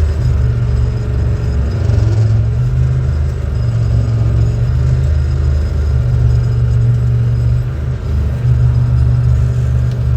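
Four-wheel-drive farm tractor's diesel engine running hard and steady in low gear as it tries to pull a stuck tractor and spreader out of soft, wet ground.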